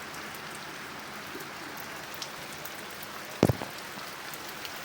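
Steady rain falling, with scattered faint drop ticks over an even hiss. A single thump about three and a half seconds in.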